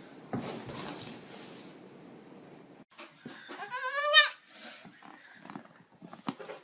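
Young goat kid bleating once, a short wavering cry about three and a half seconds in, followed by a few faint taps.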